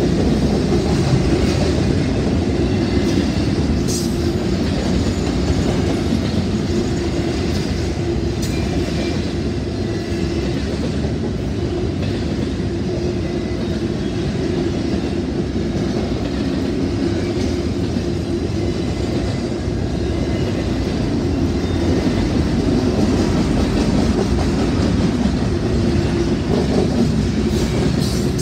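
Long train rolling past at a steady pace: a continuous rumble of steel wheels on rail, with occasional sharp clicks.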